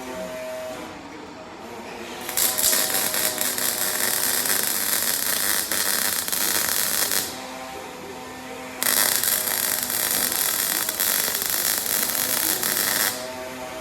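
Two long bursts of loud hissing noise from metal fabrication work on a steel roll-cage bar, the first about five seconds long and the second about four, with a steady lower hum between them.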